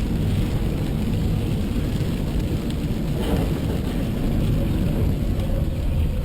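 A car driving, its road and engine noise picked up by a dash cam as a steady low rumble.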